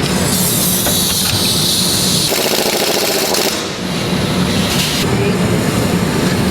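Metalworking shop machinery running loudly: a high hiss for the first three seconds or so, with a fast mechanical rattle in the middle, then a steady clattering din.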